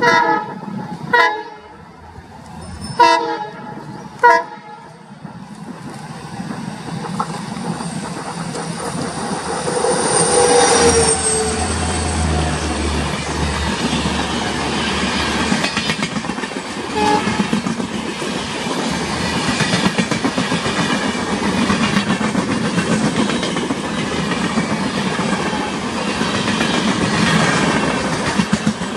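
WDP4 diesel locomotive sounding four short horn blasts in the first few seconds. Then its noise builds as the train closes in, and the express's coaches roll past steadily with wheels clattering over the rail joints.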